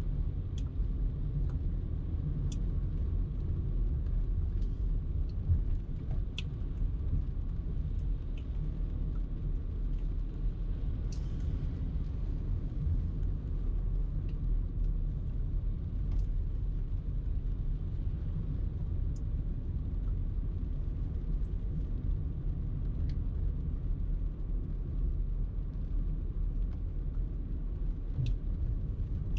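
A car driving along a road: a steady low rumble of tyre and engine noise, with a few faint, scattered ticks.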